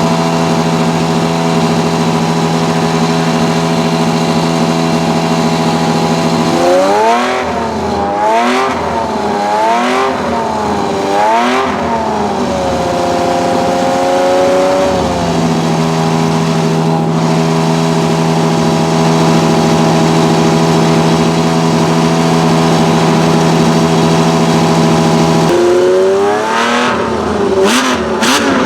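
Ferrari 1512's Tipo 207 1.5-litre flat-12 engine running at a steady idle, then revved in a run of about five quick throttle blips, its pitch rising and falling each time. It settles back to a steady idle and is revved again near the end.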